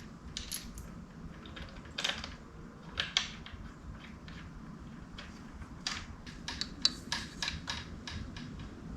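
Scattered light clicks and small knocks of parts and tools being handled while working on a motorcycle, the clearer ones about two, three, six and seven seconds in, over a faint low hum.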